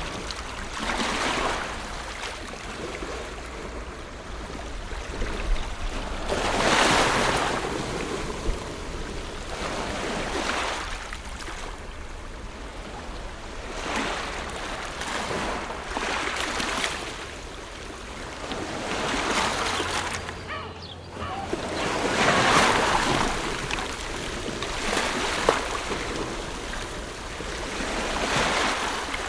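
Ocean waves breaking and washing up the shore, in swells that rise and fade about every three seconds.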